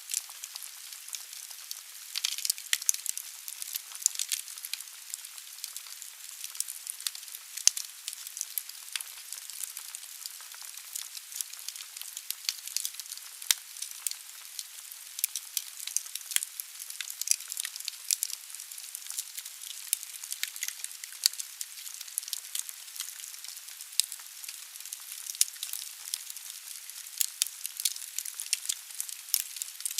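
Wood logs burning in a fireplace: many irregular crackles and pops over a steady hiss of the fire.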